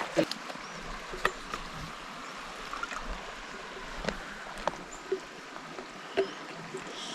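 A river flowing steadily as a constant rushing wash, with a few light clicks and taps scattered through it.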